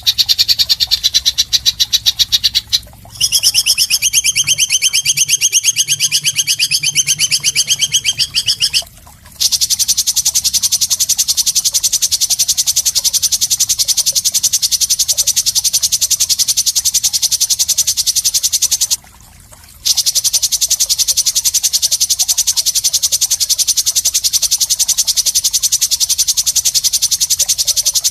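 Harsh, rapid, high-pitched pulsing calls from a songbird-training (masteran) track of rough 'isian' sounds, repeating continuously. The calls break off briefly about 3, 9 and 19 seconds in, and the middle stretch from about 3 to 9 seconds has a buzzier, wavering pattern.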